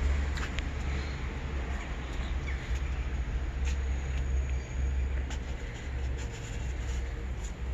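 Outdoor background: a steady low rumble with scattered faint clicks and a few faint high chirps.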